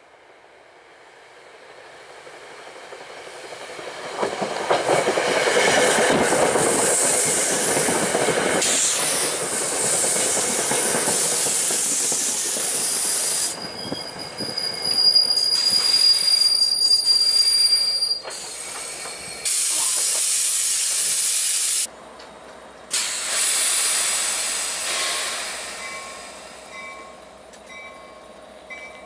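Metro-North passenger train approaching and rolling close past, its wheel and rail noise swelling over the first few seconds to a loud, steady rumble. Midway a high, steady wheel squeal sounds for a few seconds, and the sound cuts abruptly several times as the train slows.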